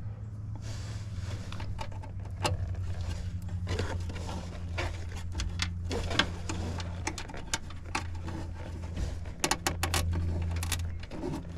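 Irregular small clicks, taps and scrapes of hands fitting a sensor and its wiring into place in a heat pump's outdoor unit, over a steady low hum.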